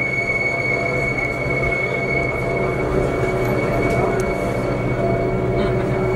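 Gornergrat Bahn electric cog-railway train climbing, heard from inside the front of the train: a steady rumble from the running gear with a steady high-pitched whine over it.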